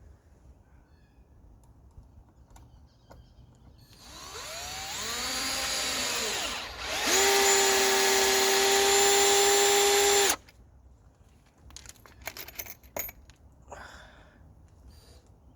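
Bauer cordless drill's motor whining: it speeds up and slows down briefly, then runs steadily at full speed for about three seconds and stops abruptly. Faint clicks and knocks of handling follow.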